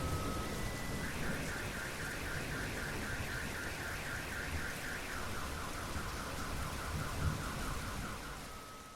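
Car alarm cycling through its tones over steady rain: a steady tone, then rapid chirps about five a second from about a second in, a lower run of rapid chirps from about halfway, and a steady tone again near the end. The whole sound fades out at the very end.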